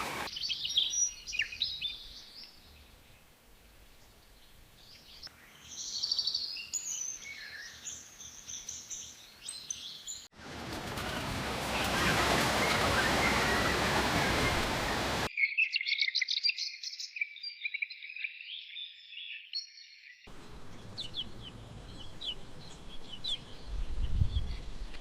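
Wild birds chirping and singing, heard in several spliced recordings. Around the middle, a loud, steady rushing noise takes over for about five seconds. A short low thump comes near the end.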